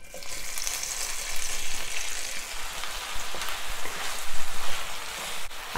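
Frozen, pre-cut okra sizzling and crackling in hot ghee in a cast-iron skillet. The sizzle starts suddenly as the okra hits the fat and keeps up as a dense, even hiss while a wooden spoon stirs it.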